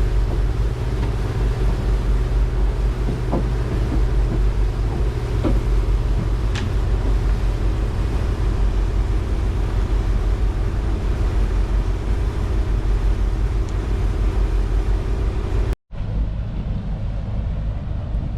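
Ferry's engine running with a steady low rumble and a held hum, with a few faint knocks. Near the end the sound cuts off abruptly and a quieter, duller rumble follows.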